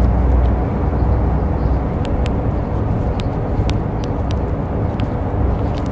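Route bus engine and road noise heard from inside the cabin while driving, a steady low rumble that eases slightly just after the start. A few sharp, irregular ticks come through in the middle.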